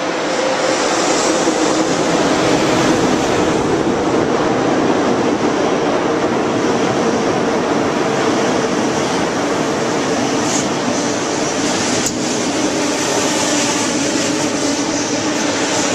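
ICE high-speed train rolling past along the platform: a steady, loud rush of wheel and rolling noise with a faint hum, and a single sharp click about three-quarters of the way through.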